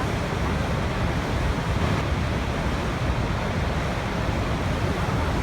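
Waterfall: falling water rushing in a steady, unbroken wash of noise, heaviest in the low range.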